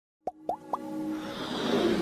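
Intro sound effect: three quick bloops rising in pitch, about a quarter second apart, followed by a swelling build-up of noise and music.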